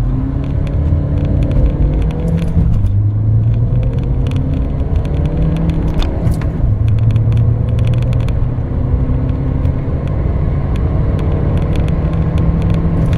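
Compact car's 1.5-litre diesel engine under hard acceleration in a manual gearbox. Its pitch climbs, drops back twice at gear changes about 3 and 6 seconds in, then climbs again.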